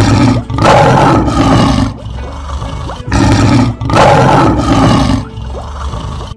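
Lion roar sound effect, heard twice: two long, rough roars about three seconds apart, each opening with a short burst, over faint background music.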